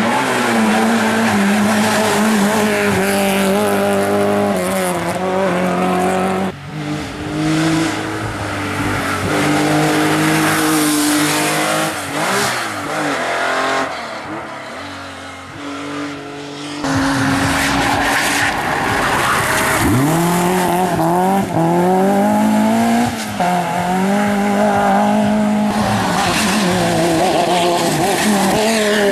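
Hill-climb race car engines revving hard, the pitch climbing and dropping over and over as the drivers shift through the gears. The sound changes abruptly twice, about a third and about three fifths of the way through.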